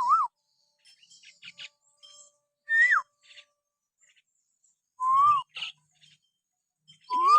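Hill myna whistling in short, clear separate phrases: a warbling whistle cutting off just after the start, a high whistle that drops sharply about three seconds in, and short rise-and-fall whistles about five seconds in and near the end. Faint clicks and chirps fall between the whistles.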